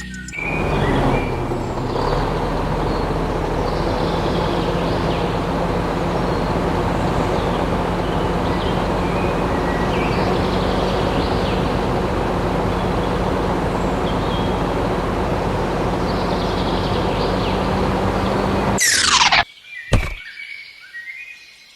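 A small engine running steadily with a low hum, while birds chirp over it. It cuts off abruptly near the end with a quick falling swish, then a sharp click.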